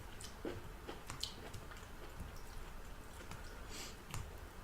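A person chewing a mouthful of food close to the microphone: soft, wet mouth sounds with scattered small clicks and smacks.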